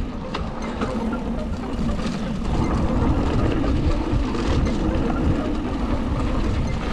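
Mountain bike riding downhill on a dirt and rock trail, heard from a camera on the rider: steady wind and tyre rumble with occasional light rattles and knocks from the bike.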